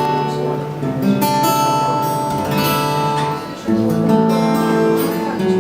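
Acoustic guitar strummed, playing a slow chord progression as a song intro.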